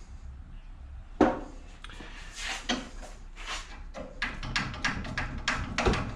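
Small pieces of scrap metal being handled and sorted, knocking and clinking against each other. One sharp knock comes about a second in, and the clinks come quicker over the last two seconds.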